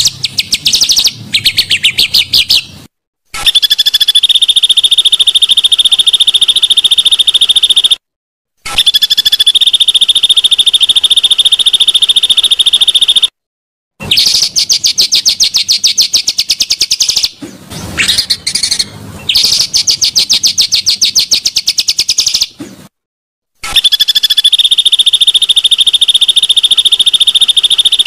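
Songbird singing long, rapid rolling trills of fast repeated high notes. The trills come in runs of about four to five seconds, each cut off by a short, abrupt silence, with a falling sweep near the start.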